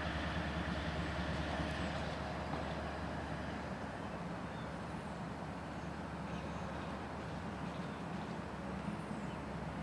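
Diesel locomotive engine running steadily with a low hum, easing slightly a few seconds in.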